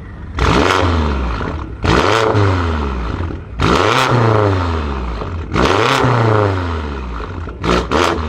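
Tuned BMW M5 F90's twin-turbo V8 being revved through its exhaust: four long revs that climb sharply and fall back, then two quick blips near the end.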